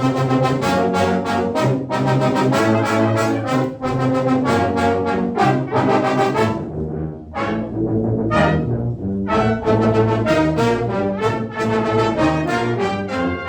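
A brass ensemble of trumpets and trombones playing a piece in short, rhythmic, detached chords, thinning out briefly about halfway through.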